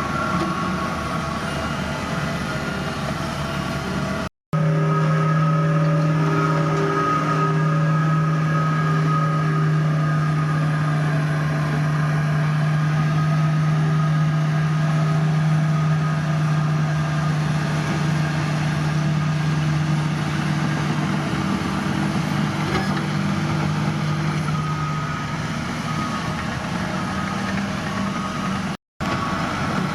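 Diesel engines of heavy earthmoving machinery running steadily, a constant low engine hum with a few steady higher tones. The sound cuts out completely for a split second twice, once about four seconds in and once near the end.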